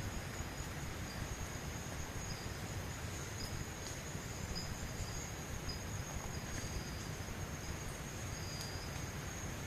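Night insects calling: one steady high-pitched trill with short, higher chirps repeating every second or so, over a low, steady rumble of background noise.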